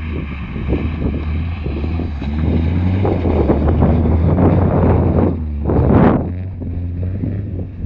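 BMW 318is four-cylinder engine running under load through a G-Power aftermarket exhaust while the car drifts in snow, with wind noise on the microphone. There is a brief loud surge about six seconds in.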